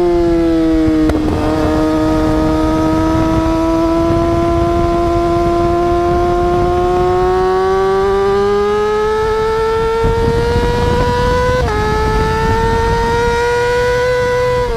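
Motorcycle engine held at high revs, its pitch slowly climbing, then dropping suddenly about twelve seconds in as if shifting up a gear, then climbing again.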